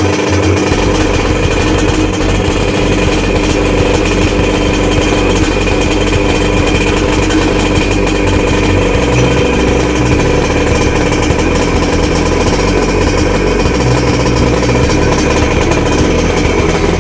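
Tuned Suzuki TS 125's single-cylinder two-stroke engine running steadily, loud, without clear revving.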